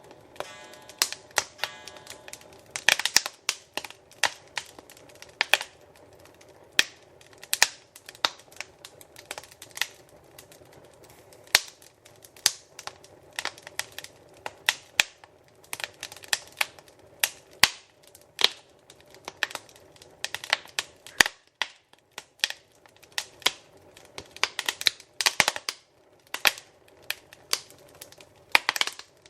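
Fire in a fireplace crackling and popping, with irregular sharp pops at several per second over a faint steady rush. The pops come in denser flurries about three seconds in and again near the end.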